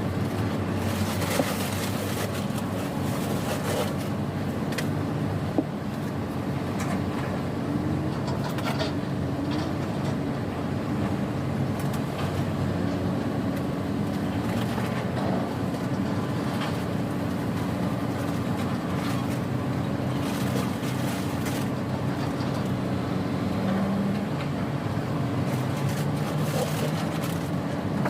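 Tugboat engine running steadily with a low, even hum, with two short sharp knocks in the first six seconds.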